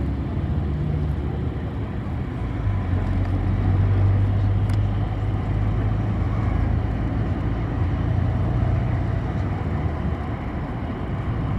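City bus engine drone and road noise heard from inside the passenger cabin while under way, a steady low hum that grows louder about three to four seconds in.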